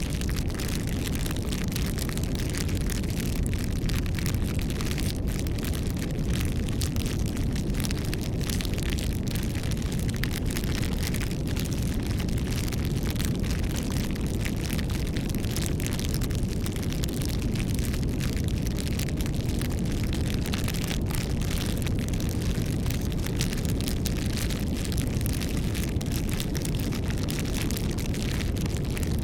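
Campfire burning steadily: a low rumbling roar of flames with frequent small wood crackles and pops.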